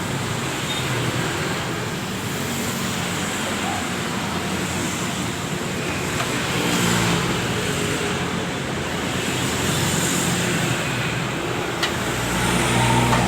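Steady motor-vehicle noise: a low engine hum over a continuous rushing haze, swelling slightly a few times.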